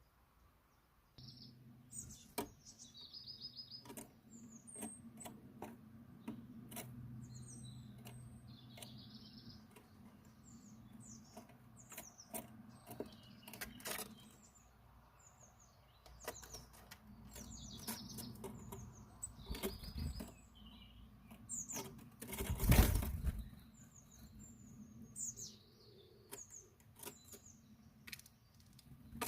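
Small birds chirping in short, high calls, with wing flutters and scattered sharp taps and clicks, over a low steady hum. About two-thirds of the way through, one louder flurry of wing noise stands out.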